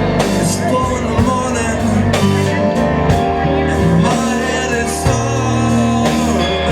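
Live band playing a slow blues song, with held low notes and steady beats.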